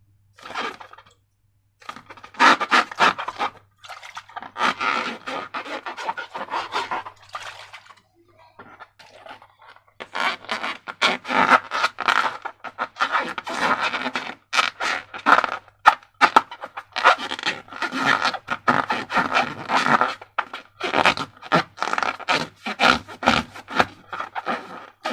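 Slime being worked by hand: dense, irregular sticky scraping and crackling noises, easing off for a couple of seconds about eight seconds in.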